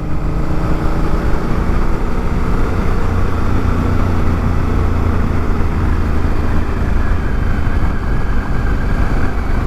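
Honda Africa Twin's parallel-twin engine running at a steady cruising speed, its hum holding a fairly even pitch under a constant rush of wind and road noise.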